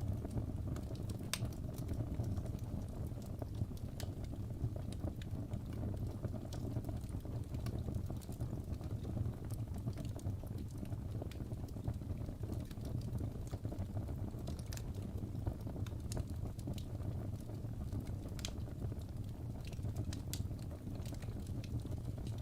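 Wood fire burning in a fireplace: a steady low rumble of flames with scattered, irregular crackles and pops.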